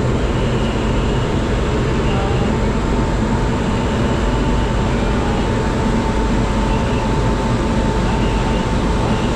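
Passenger train running, a loud steady rumble of wheels and carriages with a faint steady whine over it.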